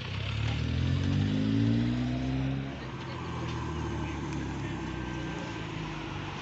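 A car engine accelerating as it drives past, its note climbing for the first couple of seconds and loudest about a second and a half in, then giving way to another engine running at a steady note.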